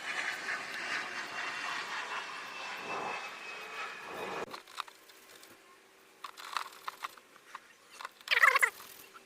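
Steady distant engine noise with a faint, slowly falling whine, which cuts off abruptly about four and a half seconds in. Then quieter handling sounds: small clicks and a loud crackling rustle about eight seconds in.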